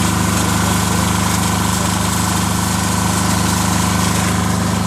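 Kubota diesel engine of a commercial pressure washer running at a steady speed.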